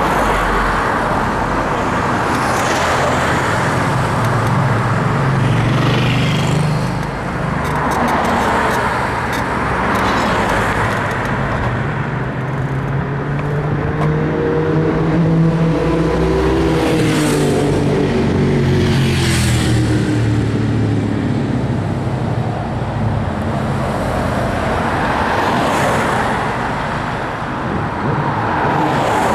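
Wind and road noise from riding a bicycle along a street, with traffic going by; a vehicle passes close about halfway through, its engine note rising and then falling. Faint intermittent creaks come from the bike's full-suspension frame, which the rider puts down to a worn suspension bushing.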